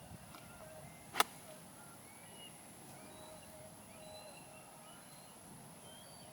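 A single sharp crack of a golf club striking the ball, about a second in.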